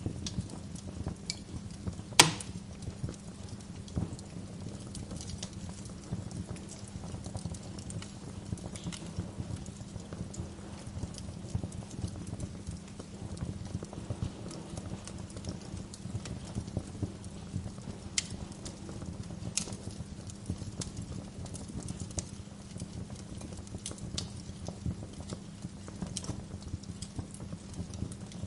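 Wood fire crackling in a fireplace: a steady scatter of small clicks and pops over a low rumble, with one loud sharp pop about two seconds in.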